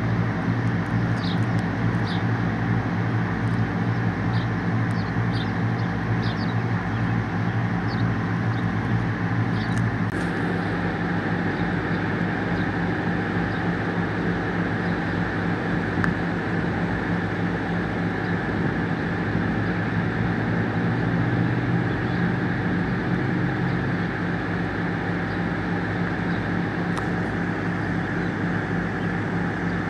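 Steady drone of a large engine running at constant speed, its tone shifting slightly about ten seconds in. Short bird chirps sound over it in the first several seconds.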